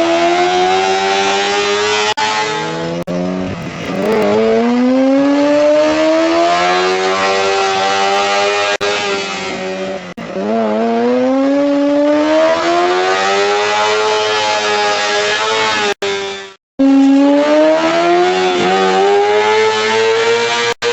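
Sportbike engine under hard acceleration, its pitch climbing steadily and then dropping at each gear change, about three times. Near the end the sound cuts off for a moment and starts climbing again.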